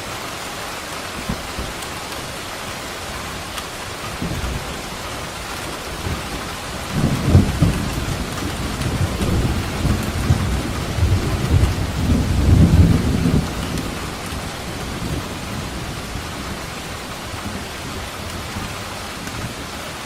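Steady heavy rain falling, with a long roll of thunder that builds about four seconds in, peaks with crackling rumbles from about seven to thirteen seconds in, and fades away.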